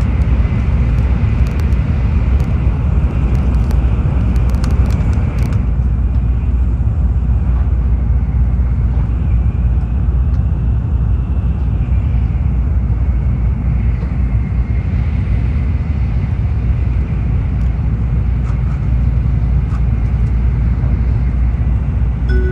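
Tokaido Shinkansen train running at speed, heard inside the passenger cabin as a steady low rumble. For the first five seconds or so a brighter hiss with faint crackling rides on top, then the sound becomes duller.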